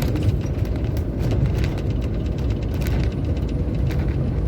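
Heavy truck on the move, heard from inside the cab: a steady low engine and road rumble with irregular light clicks and rattles throughout.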